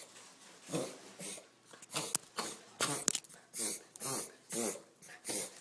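Miniature dachshund puppy's coughing fit: a rapid run of harsh, forced breaths, about two a second, that seem to come through the nose. A vet found nothing serious and suggested it may be a reverse sneeze, which the owner doubts.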